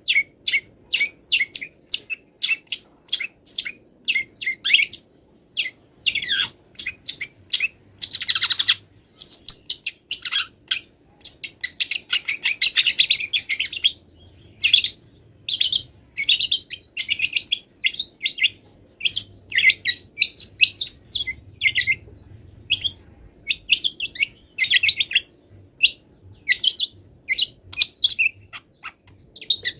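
Long-tailed shrike (cendet) singing continuously: quick runs of short, high chirps and trills, denser and busier from about eight to fourteen seconds in. The song is packed with mimicked calls of other wild birds.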